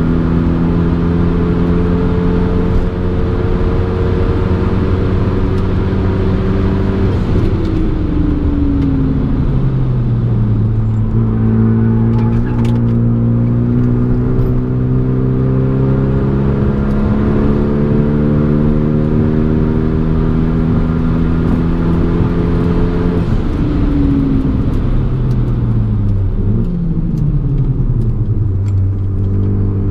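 Renault Mégane RS's turbocharged four-cylinder engine heard from inside the cabin under hard track driving. The engine note holds high, drops about a third of the way in as the driver comes off the throttle and brakes for a corner, runs at a lower steady pitch through the middle, drops again a few seconds before the end and then climbs as the car accelerates away.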